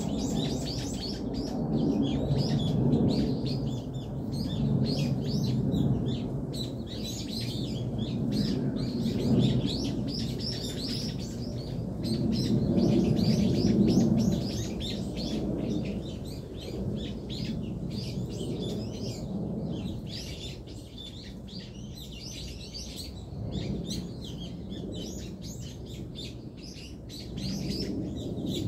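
Small birds chirping continuously, many short high calls overlapping, over a steady low rumble.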